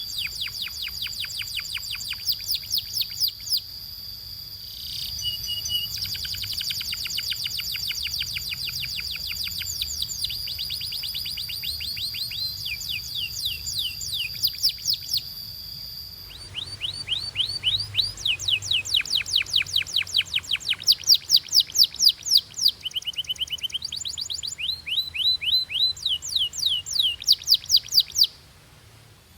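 Domestic canary singing a long song of fast rolled trills, rapid runs of repeated falling notes that switch to a new phrase every few seconds, with a steady high whistle underneath through the first half. The song stops abruptly near the end.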